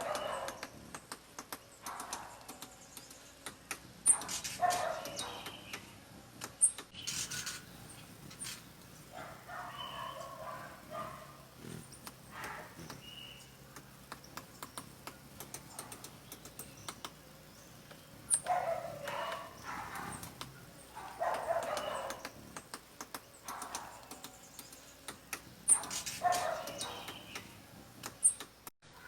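Woodpecker pecking at wood: several short bursts of rapid taps, with other animal calls in between.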